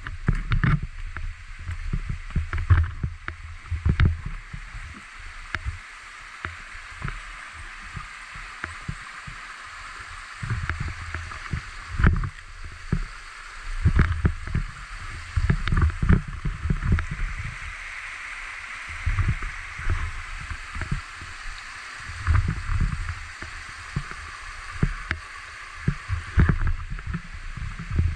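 Steady rushing of a stream or small waterfall, with frequent irregular low thumps and rumbles.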